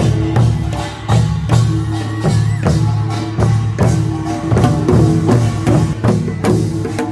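A Korean nongak farmers' music band plays a brisk, continuous beat. Metal gongs and drums are struck, and ringing tones hang under the strikes.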